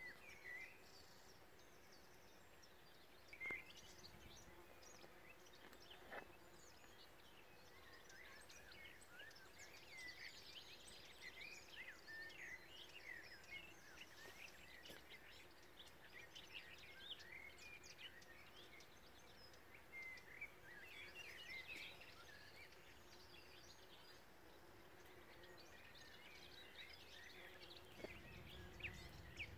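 Faint chorus of several songbirds singing at once, overlapping chirps and short trills, over a low steady hum of bees working a flowering field bean crop. A low rumble comes in near the end.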